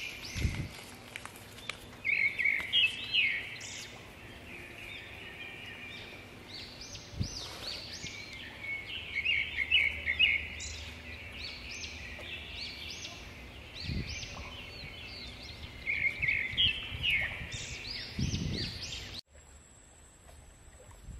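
Birds chirping and calling over and over in quick bursts, with a few low thumps. About nineteen seconds in the sound cuts to a quieter background with a faint, steady high-pitched tone.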